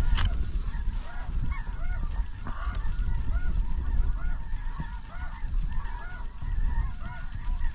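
Snow geese calling: many short, arched yelps repeating and overlapping at a moderate level, over a steady low rumble.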